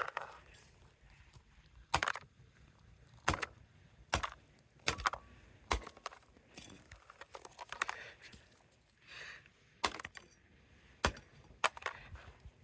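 Plastic air-conditioner remote control being broken apart: a string of sharp knocks and cracks, about one a second at irregular spacing.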